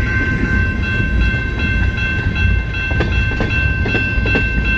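CN freight train rolling past close by: a steady low rumble of the cars with scattered clicks of wheels over the rail joints, and a steady high-pitched squeal from the wheels throughout.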